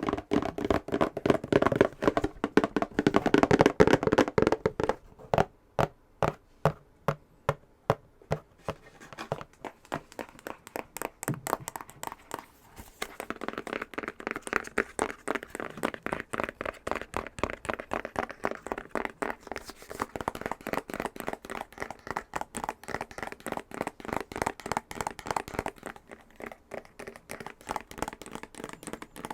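Fingernails tapping fast on a box. The taps come in a quick, dense flurry, slow to a few separate taps a second for a few seconds, then speed up again into a rapid, brighter clicking.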